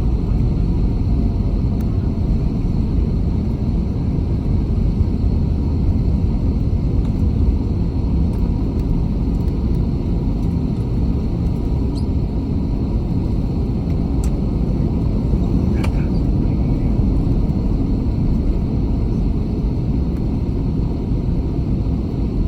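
Steady low rumble in the cabin of an Airbus A320 rolling on the ground after landing: engine and wheel noise, with faint steady whines above it. A faint click comes about two-thirds of the way through.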